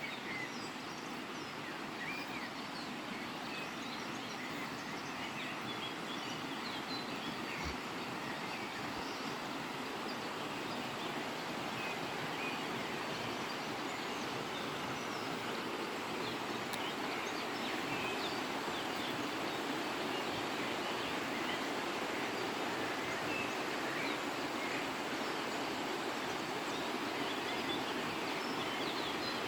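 Dawn chorus: many birds singing at once, with short chirps and whistles scattered throughout, over a steady rushing background noise that grows slightly louder.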